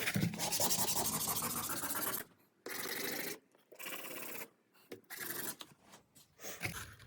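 A replacement electric-starter brush rubbed back and forth by hand on sandpaper to take it down to height. About two seconds of quick continuous strokes, then four shorter passes with pauses between.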